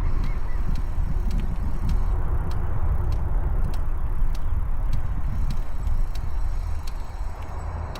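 Riding noise from a Mokwheel Granite electric trike: wind buffeting the camera's onboard microphones as a steady low rumble, with tyre noise and scattered small ticks. It eases a little near the end.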